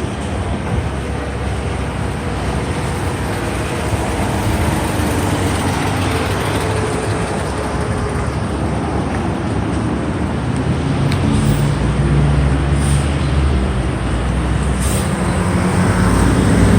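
Street traffic noise: vehicles running past, with a heavy vehicle's deep engine rumble growing louder from about two-thirds of the way in.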